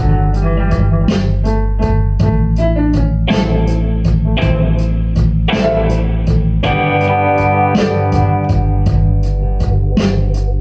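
A blues-rock band playing live: sustained organ chords over electric guitar, bass and drums, with an even cymbal beat of about four strokes a second.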